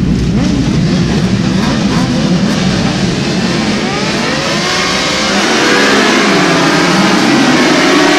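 Racing motorcycle engines at high revs on a circuit: several engines rising and falling in pitch through gear changes, with one climbing steadily from about halfway through as it accelerates.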